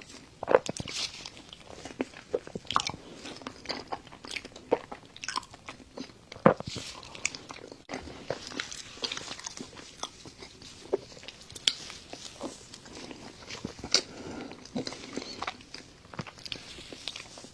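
Close-up chewing and mouth sounds of someone eating chocolate lava cake, with frequent irregular sharp clicks and smacks.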